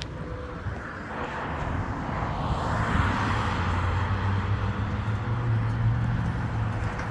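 Garbage truck's engine running with a steady low hum, growing louder about two seconds in and holding there.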